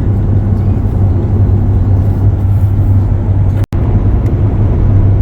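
Steady low road and engine drone inside a moving RV at highway speed. The sound drops out completely for an instant about three and a half seconds in.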